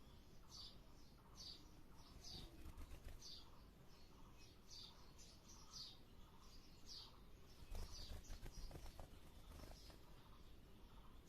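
Faint bird chirps: short high notes repeated about once a second. A few soft knocks and rustles come about eight seconds in.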